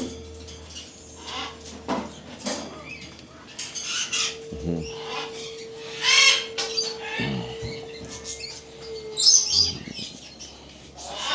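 Caged pet birds in a shop calling: scattered chirps and squawks of varying pitch, with a louder burst of calls about six seconds in and again near the end.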